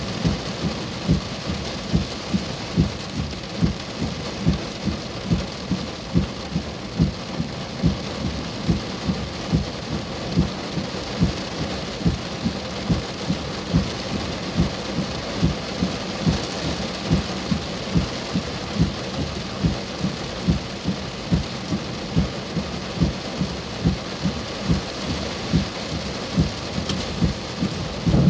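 Heavy thunderstorm rain pouring steadily, with uneven low thumps about twice a second running through it.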